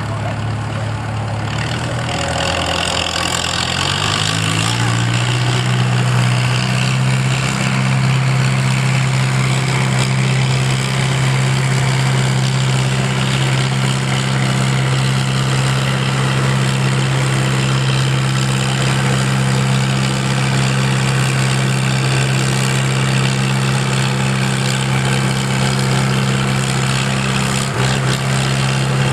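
Vehicle engine running and idling. Its pitch climbs over the first few seconds, then holds steady, with a brief dip near the end.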